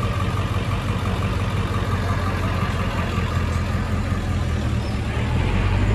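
A vehicle engine idling: a steady low hum under general street noise.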